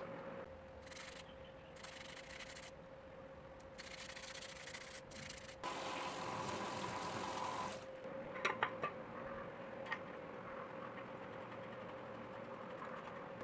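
Sandpaper rubbing in several strokes of one to two seconds each, scuffing bicycle brake parts to cure a loud brake squeal. A few sharp clicks follow near the middle.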